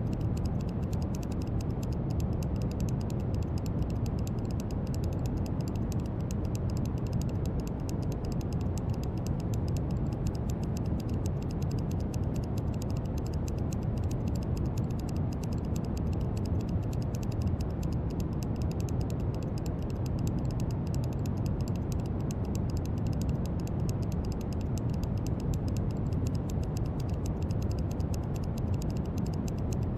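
Steady brown noise: an even, deep rushing hiss, strongest in the low end and unchanging throughout.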